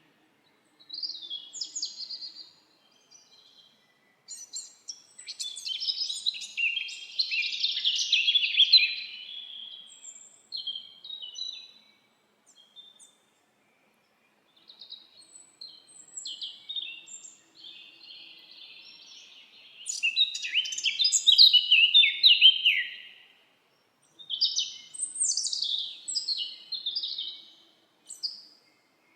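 Songbirds singing in the forest: bouts of quick, high chirps and trills a few seconds long, with brief pauses between them.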